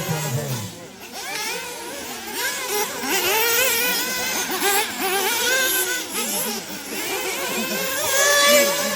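Several 1/8-scale nitro off-road RC buggy engines revving together, overlapping high-pitched whines rising and falling as the cars accelerate and brake.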